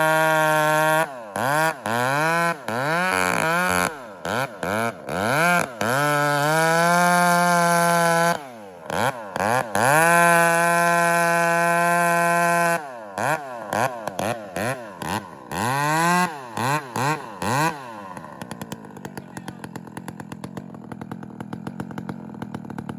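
Two-stroke chainsaw run at high revs, the throttle repeatedly let off and blipped back up so the pitch dips and rises many times. About eighteen seconds in it drops to a quieter, ticking idle.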